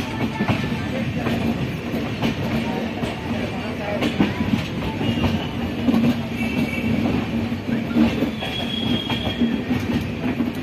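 Indian Railways passenger coaches rolling slowly over the tracks: a steady rumble of wheels on rail with irregular clacks over joints and points. Brief high-pitched squeals come from the running gear about halfway through and again near the end.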